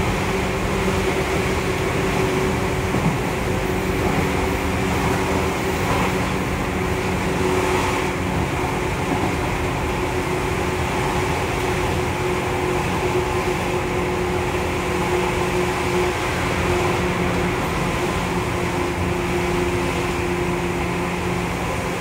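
Running sound inside the passenger car of a field-chopper-controlled Seibu 2000 series electric train travelling at steady speed: continuous wheel-on-rail rumble with a steady low hum.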